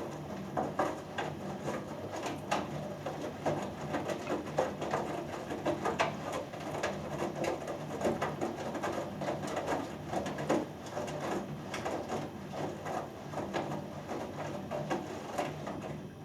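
Hoover Dynamic Next front-loading washing machine in its main wash: the drum turning wet laundry, which slaps and splashes irregularly over a steady motor hum. The tumbling stops at the end.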